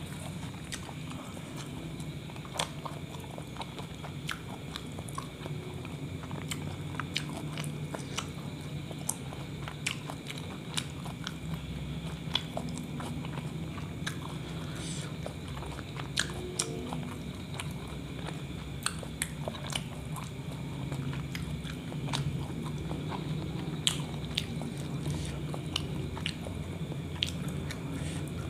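Close-up chewing of a meat kebab wrap: many small wet mouth clicks and smacks scattered throughout, over a steady low hum.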